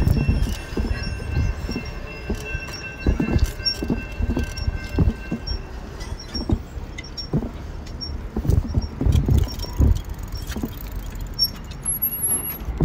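Rail crossing with a train's steady high wheel squeal that stops about six seconds in, and a faint, evenly repeated crossing-bell ding. Loud irregular wind buffeting on the phone microphone runs under it all.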